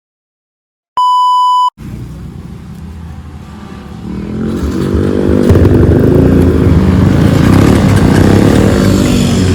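A short electronic beep about a second in, then a trail motorcycle's engine running, growing louder from about four seconds in as it is revved.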